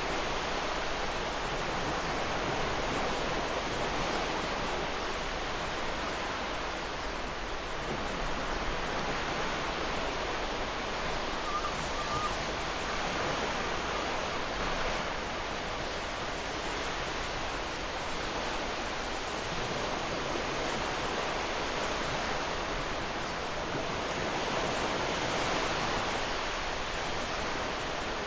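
Sea surf breaking and washing up a sandy beach: a continuous rush of waves that swells and eases slowly.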